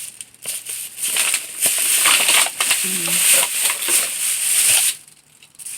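Plastic bags and packaging crinkling and rustling as trash is rummaged through, a dense crackle that stops abruptly near the end.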